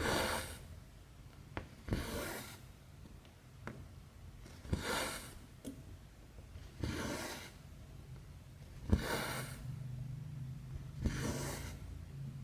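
Cross-stitch needle and thread being worked through 11-count stitching fabric: a small click as the needle pokes through, then a rasping swish as the thread is drawn taut. This repeats six times, about every two seconds.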